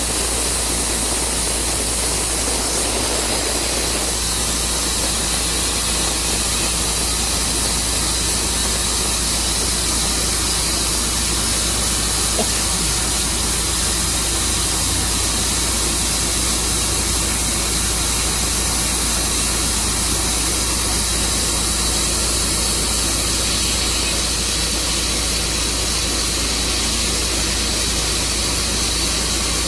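Tru Cut sawmill running steadily, its engine and blade making one even, unbroken noise with a strong high hiss over a low hum.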